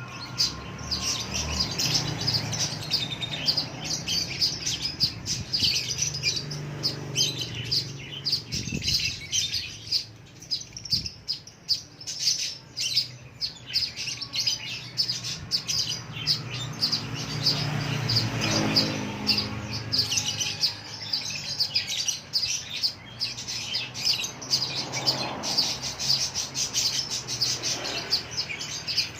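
Lovebird chattering in a dense, continuous run of rapid, shrill chirps, over a steady low hum.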